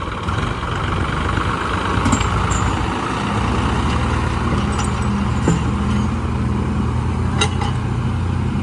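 Tractor's diesel engine running loud under load, its note settling into a steady drone about three seconds in, with a few sharp clicks or knocks over it.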